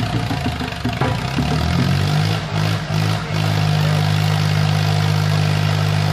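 Tractor engine running with a steady drone, dipping briefly a few times about two to three seconds in, then holding steady and loud.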